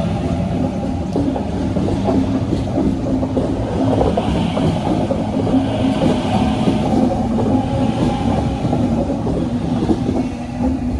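Sydney electric suburban train running close past the platform: a loud, steady rumble of wheels on rails with a held motor hum, easing off near the end.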